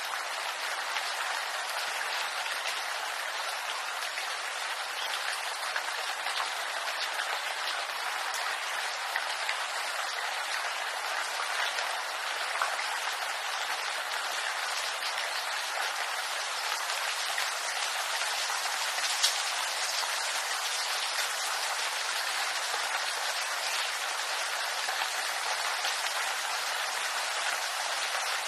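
Steady rain falling on bamboo leaves: an even hiss with scattered drop ticks, one sharper drop about two-thirds of the way through.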